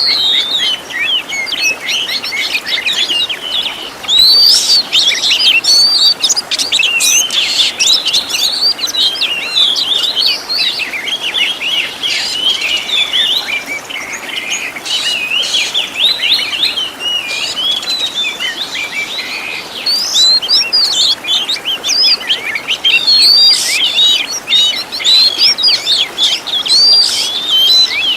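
Oriental magpie-robin (kacer) singing a continuous, fast, varied song of chirps, trills and whistles packed with phrases mimicked from other birds, a little softer in the middle stretch.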